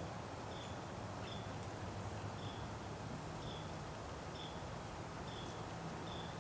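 A small bird giving a short, high call over and over, about once a second, over a low steady hum and soft outdoor background noise.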